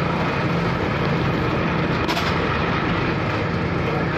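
Strong wind buffeting the microphone on a car ferry's open deck, a dense steady rush, over the steady low drone of the ferry's engine.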